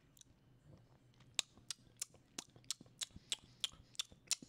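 Pizza being chewed right at a microphone: a sharp mouth click with each chew, about three a second, starting about a second and a half in.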